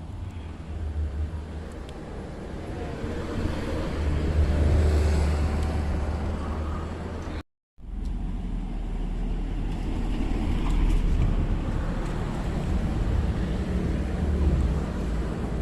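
Low rumble of road traffic crossing the bridge overhead, swelling twice as vehicles pass. The sound cuts out completely for a moment about halfway through.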